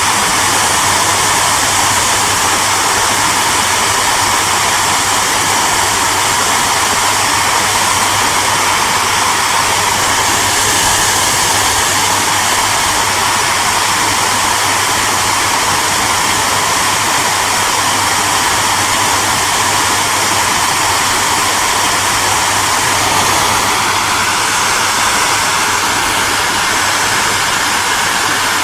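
Hair dryer running steadily: a broad rush of blown air over a low motor hum. Late on, a faint whine edges slightly up in pitch.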